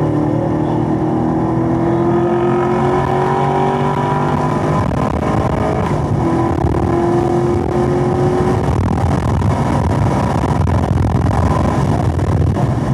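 Chevrolet Camaro SS 1LE's 6.2-litre V8 under full-throttle acceleration, heard from inside the cabin. The engine note climbs steadily through third gear, breaks off for an upshift about five to six seconds in, then climbs again in fourth. Wind and tyre noise grow with speed.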